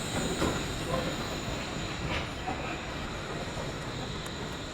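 Wuppertal suspension railway (Schwebebahn) train running along its overhead steel rail: a steady rumble with a faint high wheel squeal, easing slightly as it goes by.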